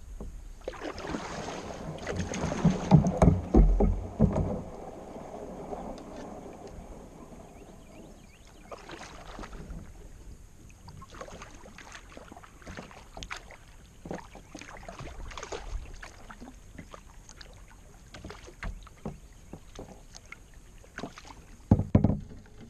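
Kayak paddling on a lake: a loud rushing, splashing passage in the first few seconds, then quieter, scattered splashes and drips from the paddle strokes, with another short loud burst near the end.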